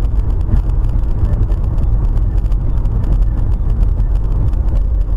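Steady low rumble of a car driving, road and engine noise with no sharp impacts.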